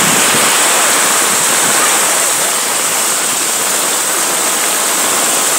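Heavy downpour with floodwater running over the street: a loud, steady, even hiss of rain and rushing water that does not change.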